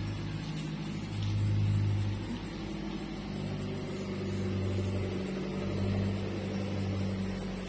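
A low mechanical hum that swells and fades over a few seconds, loudest about a second and a half in.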